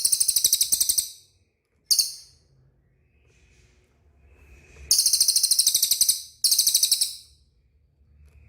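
Cililin bird singing rapid, very high-pitched chattering trills in four bursts: a long one at the start, a short one about two seconds in, then two long ones about five and six and a half seconds in.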